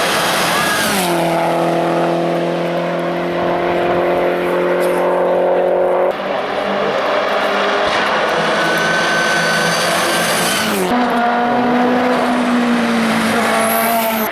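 Race car engines running hard, heard in short cut-together clips. About a second in, the engine note drops in pitch and then holds steady. The sound cuts abruptly to another car about 6 seconds in and again near 11 seconds, where it settles on a higher steady note.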